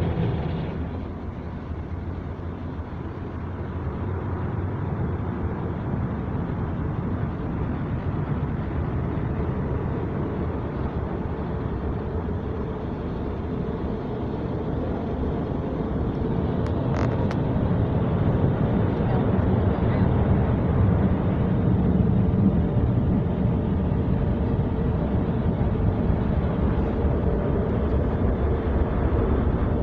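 Steady rushing noise heard from inside a car as it goes through an automatic car wash, growing louder about halfway through.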